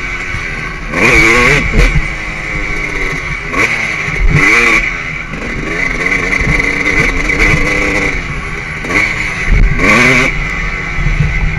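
2003 Suzuki RM 250's two-stroke single-cylinder engine under hard acceleration, heard from the bike itself. The revs climb steeply about four times, a little after the start, twice around the middle and near the end, and drop back between as the rider shifts and rolls off.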